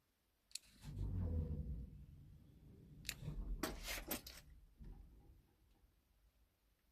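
Elevator machinery: a single click, then a low rumble with a quick cluster of sharp clicks or knocks in the middle, dying away after about five seconds.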